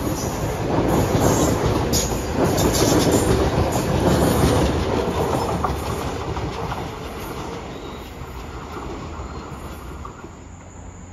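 Metro-North commuter train passing, its wheels clacking over the rail joints, then fading steadily from about halfway through as it moves off.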